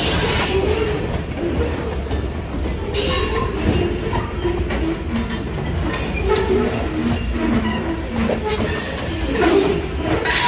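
Covered hopper cars of a freight train rolling past close by: a steady rumble of steel wheels on rail, with short squeals and clacks from the trucks. Sharper bangs come about three seconds in and again near the end.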